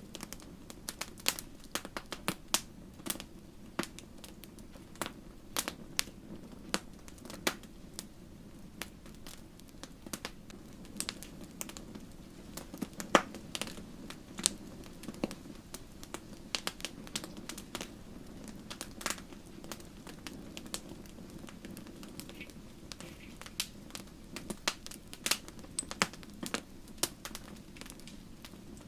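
Wood fire crackling in a fireplace: irregular sharp snaps and pops over a low, steady rumble of the flames, with one louder pop about halfway through.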